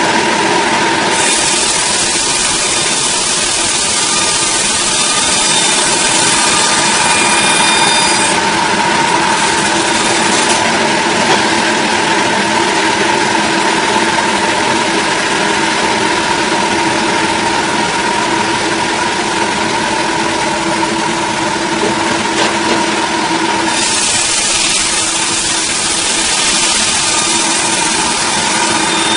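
An engine-driven saw runs steadily at speed. A harsher hiss comes in about a second in and fades around eight seconds, then returns for the last five seconds or so.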